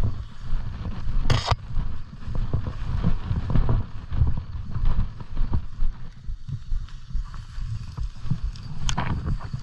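Footsteps tramping through woodland brush, with irregular low thumps and rustling as the body-worn camera jostles. A sharper brushing swish comes about a second and a half in, and another near the end.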